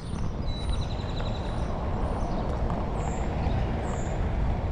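Birds chirping outdoors: a short high trill about half a second in, then two brief high chirps near the end, over a steady low rumble.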